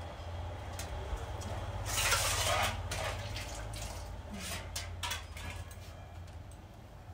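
A short rush of pouring water about two seconds in, with scattered clinks of a metal cooking pot.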